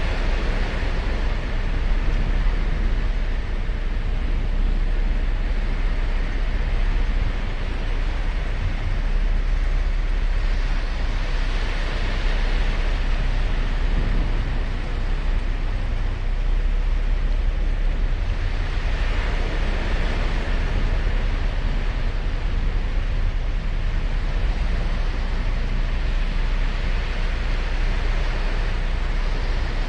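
Surf washing onto a sandy beach, a steady rush of breaking waves over a constant low rumble, swelling louder as waves break about twelve seconds in and again about nineteen seconds in.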